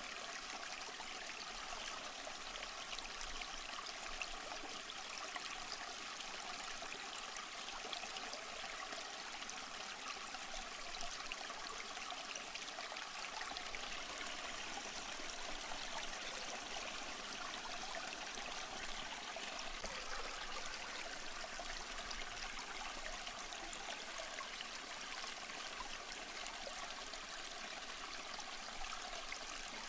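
Small stream flowing steadily over rocks: a continuous, even rush and babble of water.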